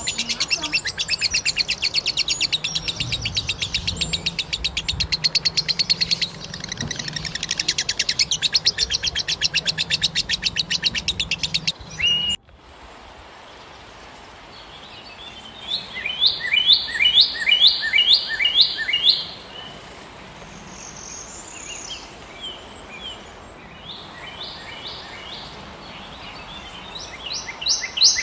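Small birds chirping: a dense, fast run of rapid chirps for about twelve seconds. It cuts off abruptly, and then short runs of quick repeated chirps come every few seconds.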